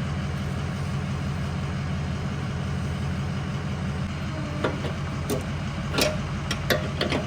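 Engine idling steadily, with a few sharp clicks and knocks in the last couple of seconds.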